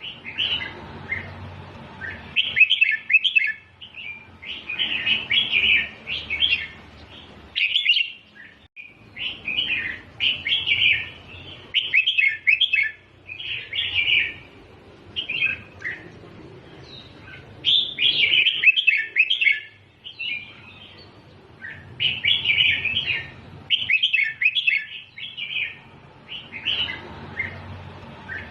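Red-whiskered bulbul singing: short, bright warbled phrases, one every second or two, with brief pauses between them.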